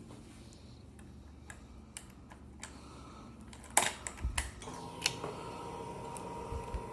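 Clicks of a key and switches on a motorcycle, a sharper click about four seconds in, then a faint steady whine for about three seconds that ends with a click, as of a Yamaha FZ-07's fuel pump priming with the ignition switched on before a cold start.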